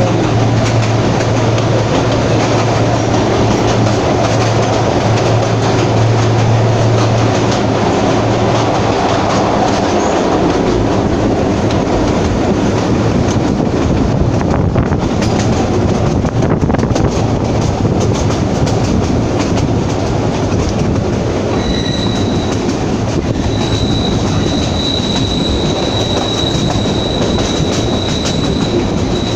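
Narrow-gauge passenger train running along the rails, a steady rumble of wheels and carriages. A low hum fades out about a third of the way in, and about two-thirds in a steady high-pitched wheel squeal sets in and holds, as the wheels grind against the rail on a curve.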